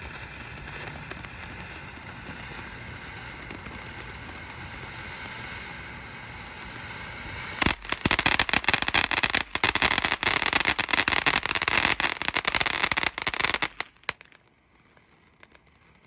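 TNT Fireworks Dust Devil firework going off. It hisses steadily for about seven seconds, then breaks into loud, dense crackling for about six seconds, which cuts off near the end.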